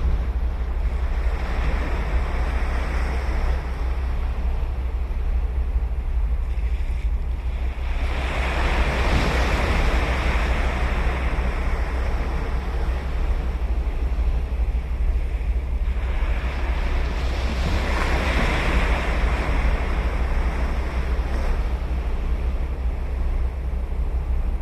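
Ocean waves breaking and washing up the beach, three surges about eight seconds apart, over a steady low rumble of wind on the microphone.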